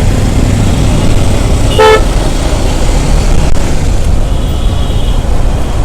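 Steady low rumble of road traffic with a short vehicle horn toot about two seconds in, and a fainter high beep near the end.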